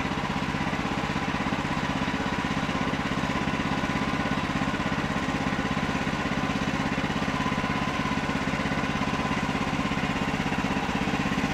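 Engine running at a steady idle, an even low firing beat with no change in speed or load.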